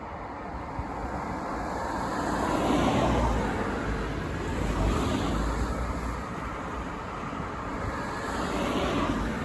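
Road vehicle noise: vehicles passing, the sound swelling and fading about three times over a steady low rumble.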